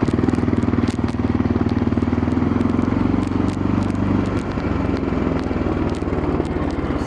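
Quad bike engine running steadily while riding, its note easing off slightly about four seconds in, with small scattered clicks and crackles.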